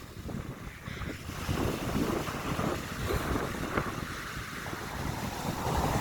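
Wind buffeting the microphone over the wash of sea waves breaking on a beach.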